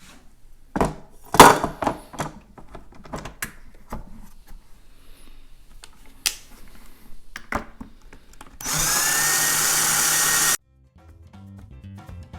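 Plastic parts clicking and knocking as they are handled and fitted together. About eight and a half seconds in, a cordless drill/driver runs for about two seconds, its pitch rising as it spins up, then cuts off suddenly. Upbeat background music follows.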